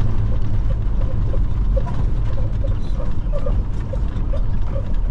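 Semi truck's diesel engine running with a steady low rumble, with faint irregular chirps and clicks above it.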